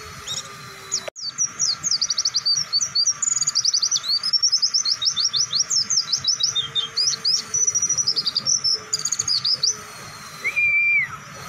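White-eye (pleci) singing a long, fast twittering song of rapid high chirps, broken by brief pauses. Near the end comes a single long whistled note.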